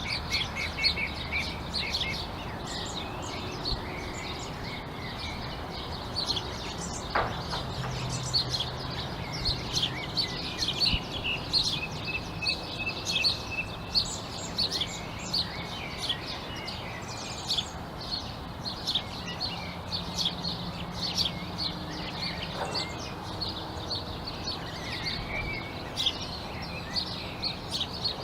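A chorus of songbirds chirping and singing, with many short high chirps overlapping throughout and a rapid trilling call at the start and again at the end, over a steady low background hum.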